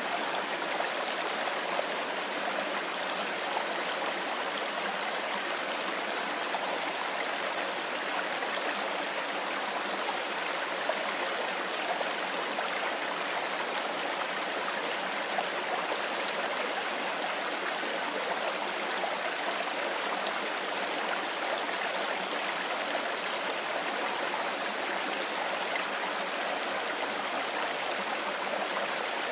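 Mountain stream running steadily over stones, a continuous even rush of water.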